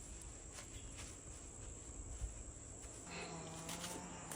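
Insects, crickets or cicadas, giving a faint steady high-pitched trill. About three seconds in, a low steady hum joins them.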